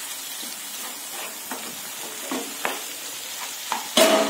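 Onion-tomato masala sizzling in a pan while a wooden spatula stirs and presses it, with short scraping strokes. A loud, ringing clack about four seconds in.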